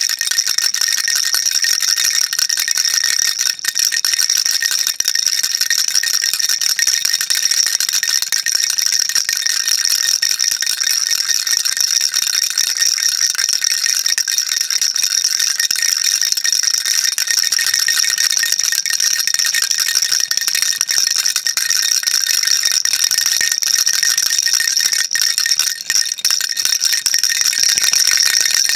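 Baby rattle shaken continuously, its beads making a dense, even, high-pitched rattle.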